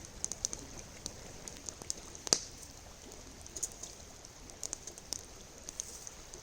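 Campfire crackling: scattered sharp pops over a steady hiss, with one louder pop a little over two seconds in.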